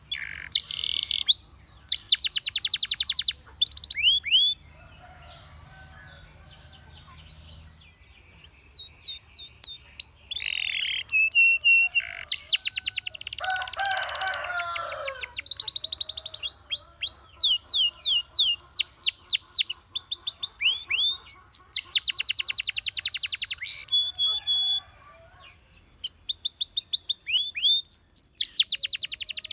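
Canary singing in fast trills and runs of quick down-slurred whistles. The song breaks off for a few seconds about five seconds in, and briefly again near the end.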